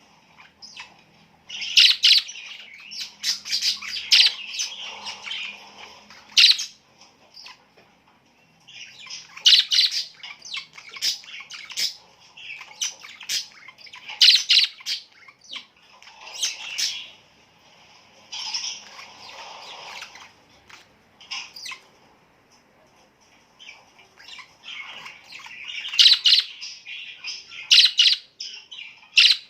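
Birds chirping in bouts of rapid, high, short calls, with quiet gaps of a second or two between the bouts.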